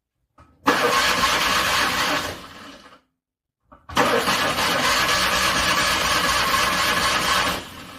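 Car engine cranking over in freezing cold without starting, in two attempts: a short crank about a second in, then a longer one of about three and a half seconds. Each begins with a faint click and fades away when it stops.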